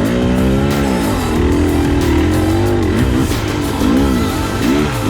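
Dirt bike engine revving up and down over and over, its pitch rising and falling about once a second.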